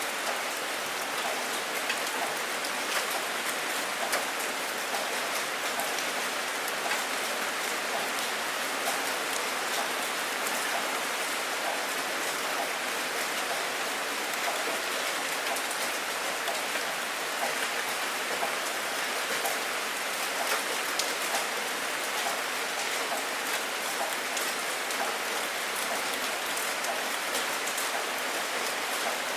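Steady rain falling, a dense hiss with many small drop ticks.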